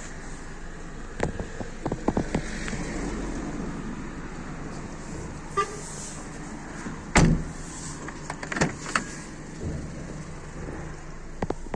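Honda Civic 1.8 petrol engine idling steadily, with scattered clicks and knocks and one heavier thump about seven seconds in.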